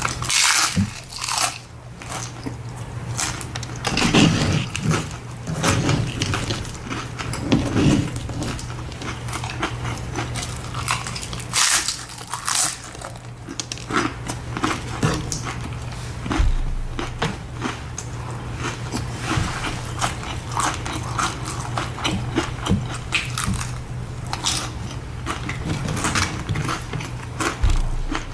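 Tacos being bitten and chewed close to the microphone: a steady run of crunching bites and chewing, over a steady low hum.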